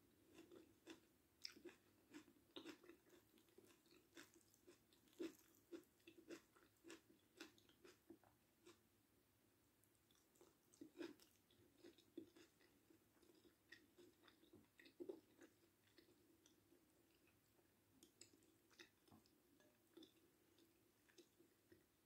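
Faint close-up chewing of a mouthful of food: soft, wet mouth clicks and smacks, many in the first half and fewer after.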